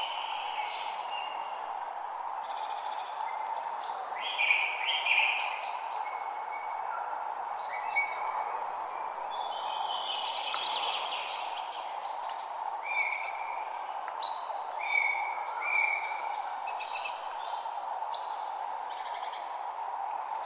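Several songbirds chirping and trilling, short calls overlapping one another, over a steady background hiss.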